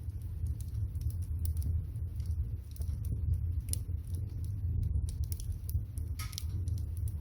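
Water boiling in a pot over a wood fire: a steady low bubbling rumble with scattered crackles and pops from the burning firewood, and a short hiss about six seconds in.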